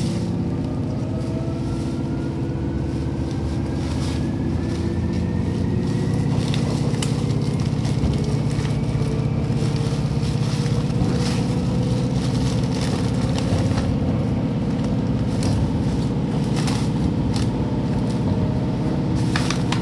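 Seibu 2000 series electric train running, heard from inside the car: a loud, steady rumble with a faint whine rising in pitch over the first nine seconds or so as the train gathers speed, and sharp clicks of the wheels over rail joints.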